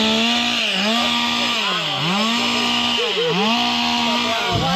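Two-stroke chainsaw running at high revs, its engine pitch dipping briefly about four times and climbing straight back.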